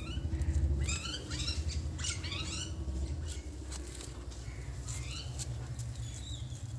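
A small bird chirping in several short bursts of quick trilled notes, most of them in the first three seconds and another about five seconds in, over a low rumble on the microphone.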